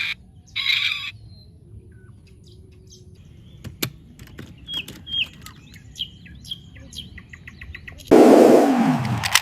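Faint, short bird chirps over a quiet background, with a sharp click midway. Near the end a loud rushing noise starts suddenly and keeps going.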